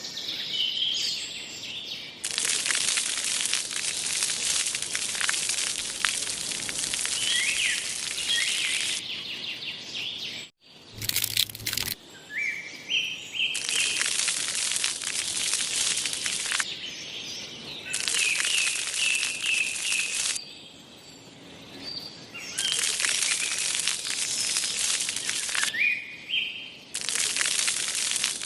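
Repeated bursts of dense crackling noise, each a few seconds long and starting and stopping abruptly, with small birds chirping in the background throughout.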